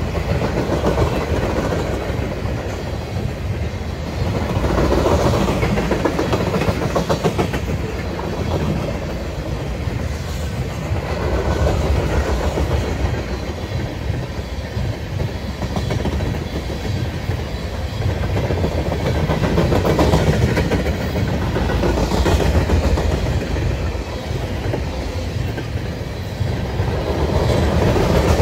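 Loaded freight train of open-top trash cars rolling past, with steady wheel rumble and clickety-clack over the rail joints. The loudness swells and eases every few seconds as the cars go by.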